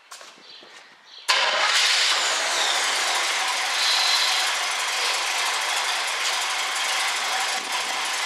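1967 Chevrolet Camaro's engine comes on abruptly about a second in, with no cranking heard, and then runs steadily at idle.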